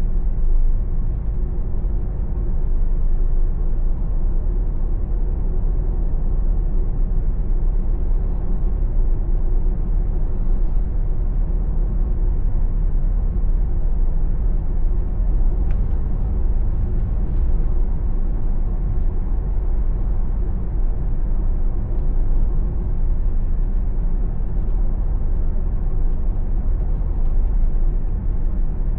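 Steady low rumble of a car's engine and tyre road noise, heard from inside the cabin while cruising.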